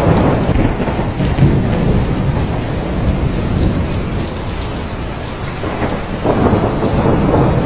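Thunderstorm: steady heavy rain with rolling thunder rumbling underneath, easing a little midway and swelling again near the end.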